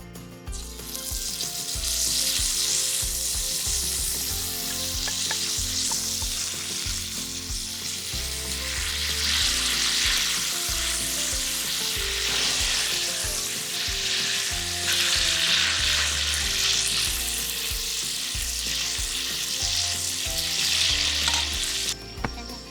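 Food sizzling as it fries in a pan, a steady hiss that swells and eases.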